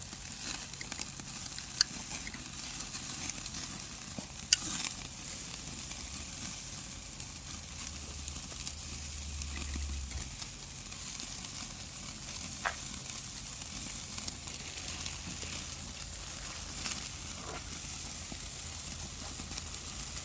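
Black-pork belly sizzling on a grill over a wood and charcoal fire: a steady hiss with sharp pops now and then, the loudest about two seconds and four and a half seconds in.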